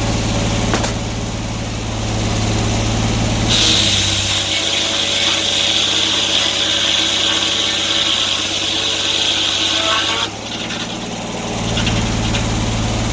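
Sawmill engine idling, then the saw cutting through an oak log for about seven seconds with a loud high hiss, the engine note dropping under load. The cut ends suddenly and the engine settles back to idle.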